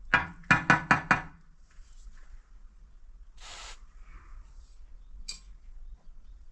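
Five sharp knocks in quick succession, about four a second, followed a couple of seconds later by a short scraping hiss and a single click.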